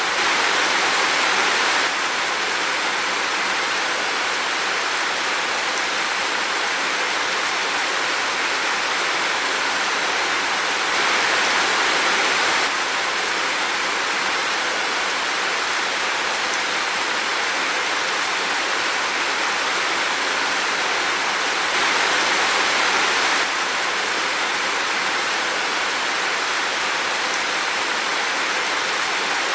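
Heavy rain falling steadily, a dense hiss that swells slightly for a second or two about every ten seconds.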